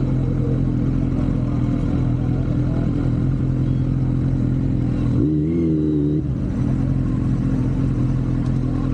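Kawasaki Z900 inline-four motorcycle engine running at a steady speed under way, with wind noise over the microphone. About five seconds in, the engine note wavers up and back down for about a second, then settles again.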